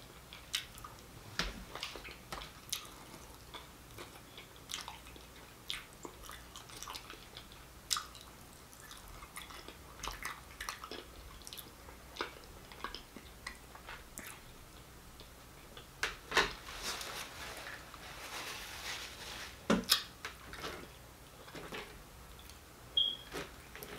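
Close-miked eating sounds: chewing with irregular wet mouth smacks and clicks, and a denser stretch of smacking a little past the middle.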